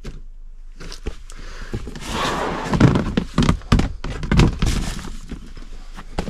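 Items being handled and moved on a storage shelf while searching for a boxed DVD set: a run of thunks and knocks with rustling, loudest in the middle.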